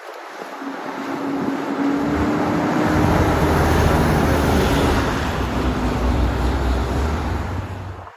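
Heavy truck driving past close by: diesel engine note and tyre noise build up, are loudest about halfway through, and cut off abruptly at the end.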